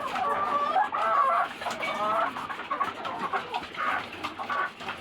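A flock of laying hens clucking and calling over one another as they feed, many birds at once.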